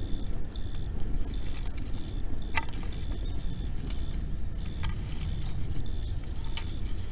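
Campfire burning, with occasional sharp pops of the wood over a steady low rumble; a high chirp repeats about twice a second.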